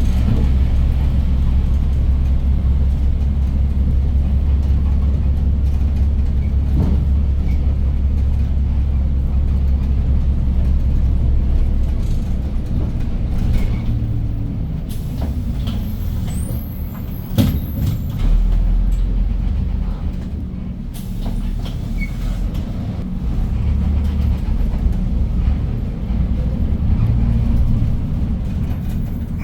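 The CNG engine of a 2015 Hyundai New Super Aerocity city bus, heard from inside the bus, drones steadily under way. About halfway through it eases off, with air-brake hissing and a sharp clack as the bus comes to a stop. It idles with a deep hum, then pulls away again with the engine building.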